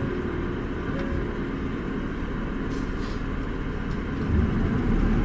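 Isuzu Erga city bus's diesel engine running at low speed, heard inside the cabin, with a few faint clicks; near the end the engine note rises and grows louder as the bus accelerates.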